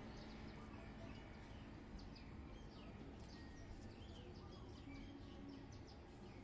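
Faint background noise with birds chirping: many short, quick chirps scattered over a low, steady hum.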